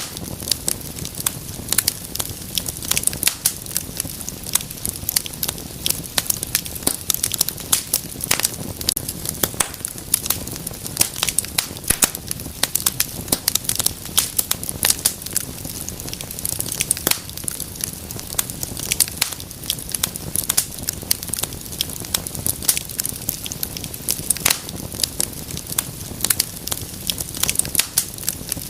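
Wood fire crackling, with many irregular sharp pops and snaps over a steady low rush of burning.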